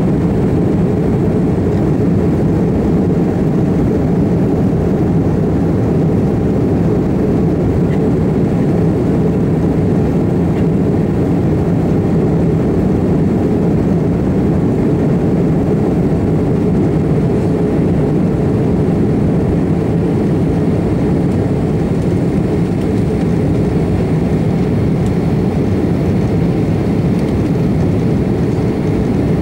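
Airbus A330-300's General Electric CF6 turbofan engines running at high power during take-off, a steady deep rumble.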